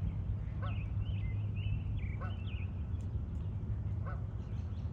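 Geese giving a few short, scattered honking calls over a steady low rumble.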